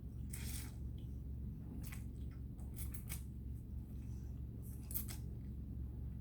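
A person eating ramen noodles: short, wet mouth noises from chewing and slurping, a handful of times, over a steady low hum.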